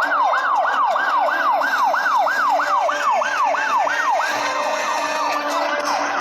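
A police car siren in a fast yelp, each sweep rising and falling in pitch about three times a second. Around four seconds in it switches to a quicker, weaker warble, then returns to the yelp near the end.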